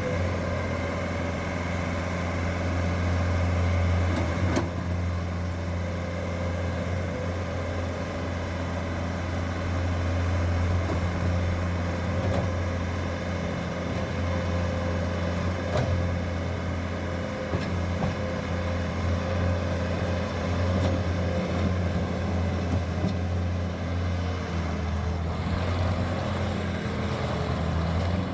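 Bobcat T590 tracked skid steer's 2.4-litre four-cylinder turbo diesel running at a steady speed, with only small rises and falls in level.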